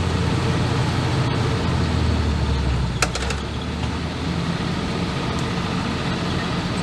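A 1980 Land Rover Series III's engine running steadily as it drives, with one sharp click about three seconds in.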